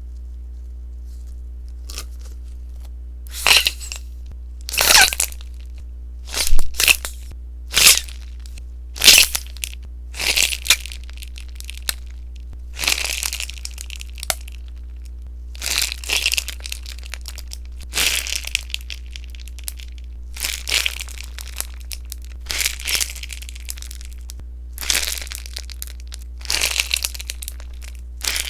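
Popping sponge slime crackling and popping in short bursts, about one every second or so, starting a few seconds in.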